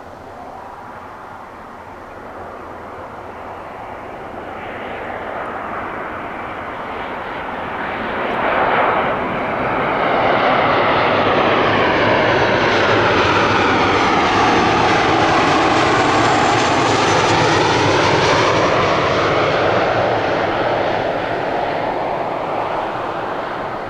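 Boeing 737-800 airliner's CFM56-7B turbofan engines passing close overhead. The roar swells over about ten seconds, holds loud for about ten more with a whooshing tone that sweeps down and back up, then begins to fade.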